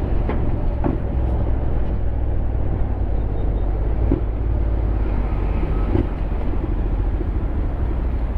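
Honda X-ADV 750's parallel-twin engine running steadily at low speed in slow traffic, with surrounding road and traffic noise and a few brief ticks.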